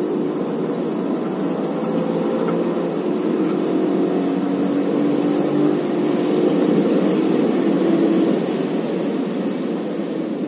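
Car engine heard from inside the cabin at high speed, pulling hard with its pitch climbing slowly, then easing off as the car slows near the end. Under it runs a steady hiss of tyres on wet tarmac.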